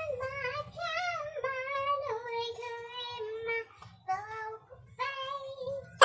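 A child singing a wordless-sounding tune in a high voice, in short phrases of held and sliding notes, over a steady low hum.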